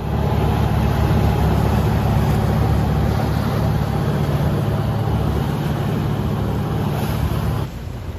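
Motorboat engine running steadily, with water and wind noise over it; it drops away sharply near the end.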